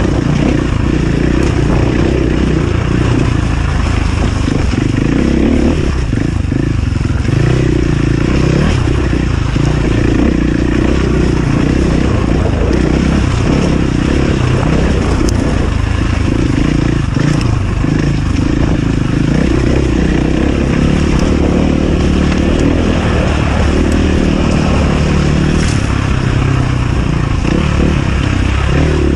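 Enduro dirt bike engine running under load off-road, its pitch rising and falling as the throttle is worked.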